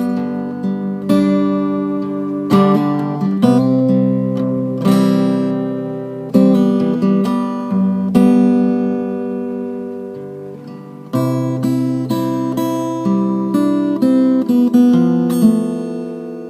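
Background music on acoustic guitar: chords struck every second or two and left to ring, fading away near the end.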